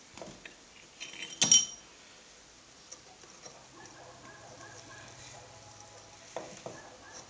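Metal parts or tools clinking, with one sharp ringing metal strike about a second and a half in and two lighter knocks near the end.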